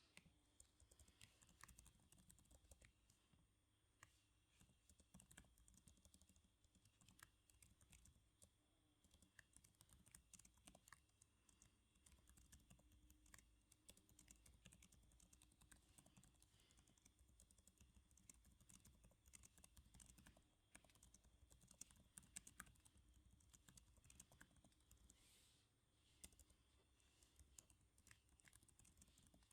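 Quiet typing on a computer keyboard: keys clicking in quick, uneven runs with brief pauses.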